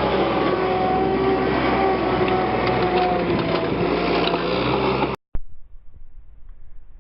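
Power-driven wire brush running against a steel tractor rim: a steady motor whine with a gritty scraping over it. It cuts off abruptly about five seconds in, leaving only faint low noise and a few light clicks.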